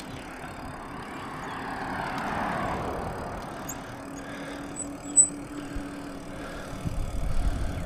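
Bicycle riding along a street, with steady tyre and wind noise that swells about two seconds in as a vehicle goes by. There is a single sharp click near the five-second mark.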